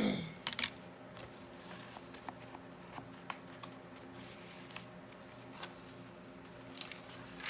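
Light taps and paper rustles as an ink pad is dabbed along the edges of a small paper card, with a sharper click about half a second in.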